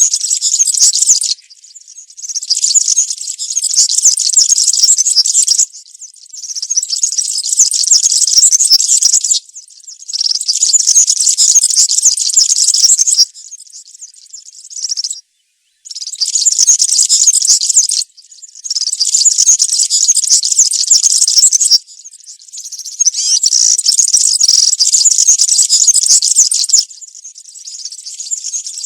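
European serin singing its high-pitched, fast song in a series of phrases two to four seconds long, separated by short pauses.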